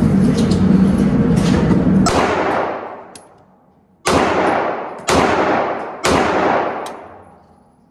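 Three gunshots about a second apart near the middle, each ringing out in a long fading echo. Before them, a loud sustained din dies away after about two seconds.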